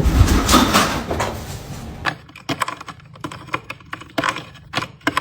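A burst of rustling and knocking, then a run of sharp, unevenly spaced clicks and taps, several a second, from about two seconds in.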